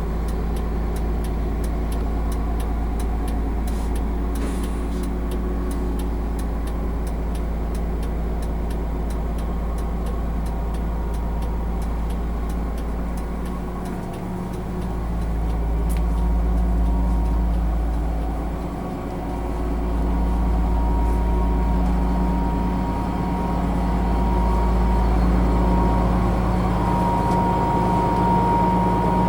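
Cummins ISM turbo-diesel engine of a coach bus running steadily, with a deep hum, a faint regular ticking, and a whine that grows louder near the end. The level sags briefly twice along the way.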